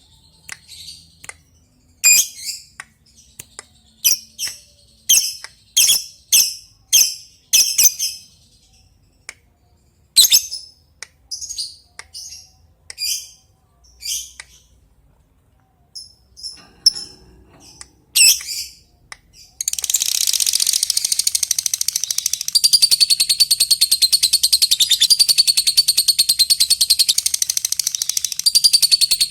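Lovebird giving sharp, separate high chirps, about two a second, the 'ngetik' call to a rival. About two-thirds of the way through it breaks into a continuous rapid chatter, the long 'ngekek' song.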